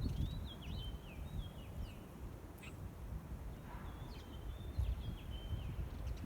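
A songbird singing two short phrases of high whistled notes, each about two seconds long, over the low rumble of wind buffeting the microphone.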